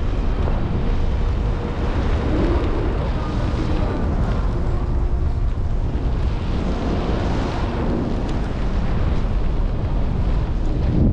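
Wind buffeting the microphone in flight: a steady, loud rumble with hiss over it.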